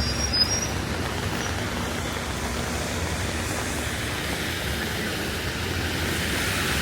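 Steady rumble and hiss of passing road traffic.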